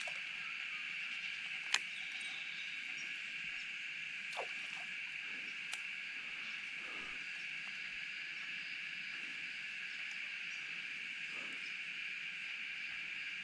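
Steady, high chorus of insects droning without a break, with a single sharp click a little under two seconds in.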